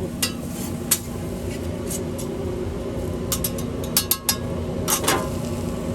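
Scattered short clicks and clinks of kitchen utensils over a steady hum of food-truck kitchen equipment.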